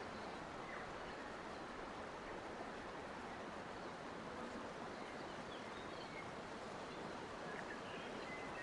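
Steady rushing of flowing water, with a few faint, short bird chirps here and there.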